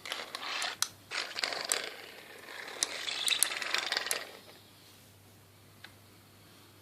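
Coffee grinder's parts clicking, rattling and scraping in irregular bursts for about four seconds, then stopping.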